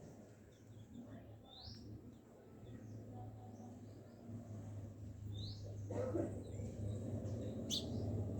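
A small bird chirping: three short rising chirps a few seconds apart, the last one the loudest, over a steady low hum.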